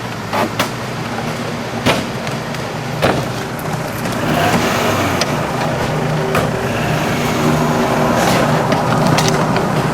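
Car engine running steadily, with a scatter of sharp cracks or bangs every second or two over it.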